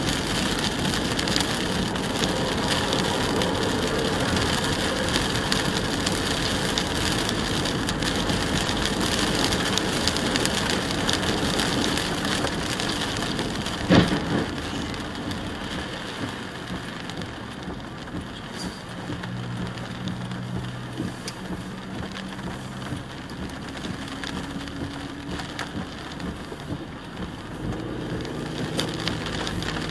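Rain and wet-road noise heard from inside a moving car: a steady hiss of rain and tyres on a soaked highway. A single sharp knock about halfway through, and a low steady hum comes in during the last third.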